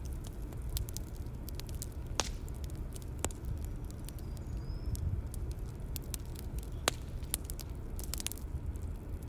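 Bonfire crackling: scattered sharp pops and snaps over a low, steady rumble of burning.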